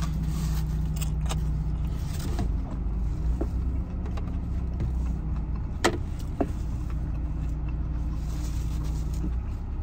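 Steady low hum of a parked car's engine idling inside the cabin, with a few sharp clicks about six seconds in.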